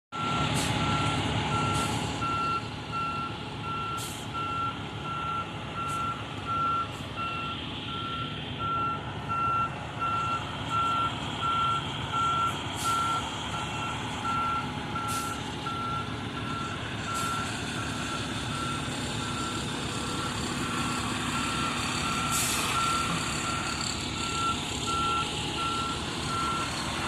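Fire engine's reversing alarm beeping steadily, about two beeps a second, over the truck's engine running as it backs up.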